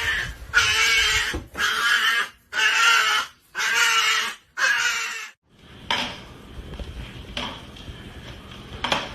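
A dog making six loud, breathy sounds in a steady rhythm, about one a second, then falling quieter with a few soft knocks.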